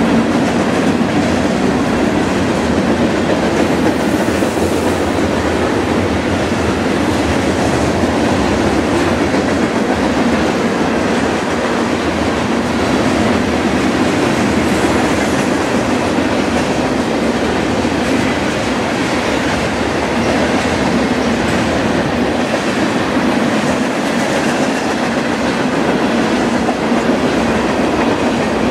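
Steady noise of steel wheels on rail as a freight train's cars roll past close by, boxcars and then tank cars.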